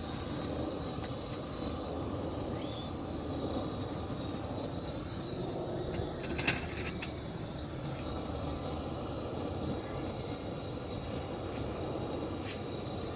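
Food warming in a pan on a stove: a steady low rushing, with a quick run of sharp clicks about halfway through and one more near the end.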